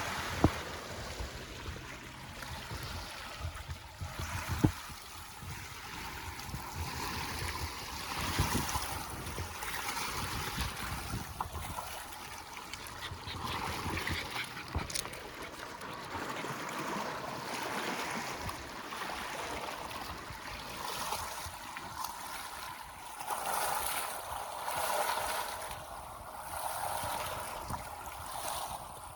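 Small lake waves lapping and splashing at the shore, swelling and ebbing every few seconds, with two brief sharp knocks in the first five seconds.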